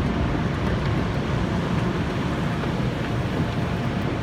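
Automated car wash equipment working over a car, heard from inside the cabin: a steady, dense rumble and rush of wash noise against the body.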